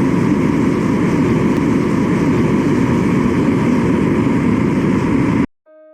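Loud, steady roar of shop equipment that cuts off abruptly near the end.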